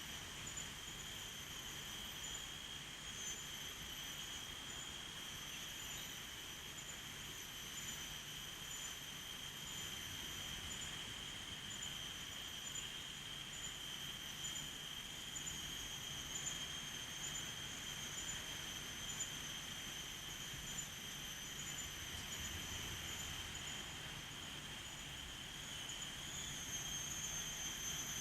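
Insects trilling steadily at a high pitch, with a higher layer that pulses at an even beat, over a faint hiss; the chorus grows slightly louder near the end.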